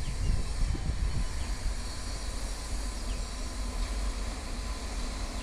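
WAG-9HC electric locomotive hauling a goods train, a steady low rumble.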